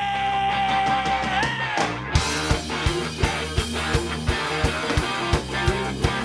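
A pop/rock band playing live. A single held note bends upward, and about two seconds in the full band comes in with a steady drum beat and electric guitars.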